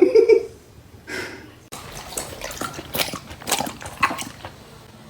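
A dog's wet mouth sounds: irregular sharp clicks and smacks, after a brief pitched sound at the start.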